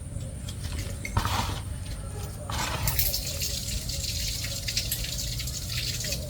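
Water splashing and dripping: two short splashes about a second and two and a half seconds in, then a run of dripping and trickling.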